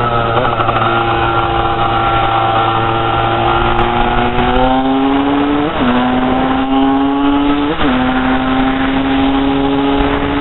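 Honda CR250 two-stroke single-cylinder engine pulling the bike along. Its note climbs slowly, then drops sharply at upshifts just after the start, a little past halfway and about three-quarters through.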